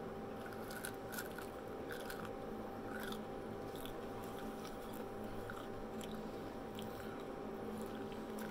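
A person biting and chewing fried onion rings close to the microphone: soft, scattered crunches.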